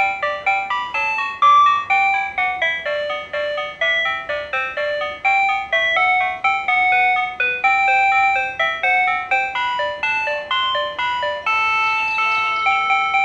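PATLITE electronic annunciator playing a railway signal-clear tune: a bright electronic melody of quick notes, several a second, looping without pause. It tells the crew of a one-man train that the departure signal has cleared, and it keeps playing while the signal stays clear.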